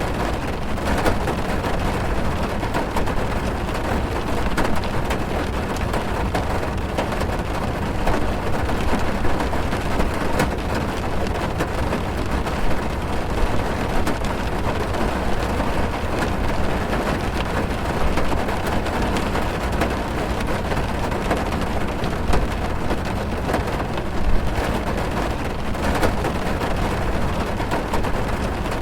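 Steady heavy rain drumming on a car's roof and windows, heard from inside the cabin, with many individual drops ticking against the body.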